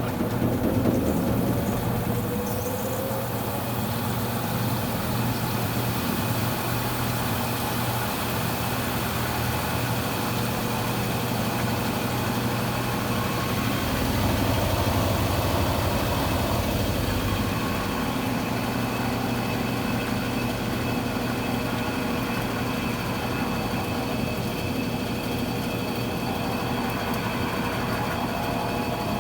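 Consul Cargo 8 kg washing machine running, its motor giving a steady mechanical hum that swells briefly about halfway through.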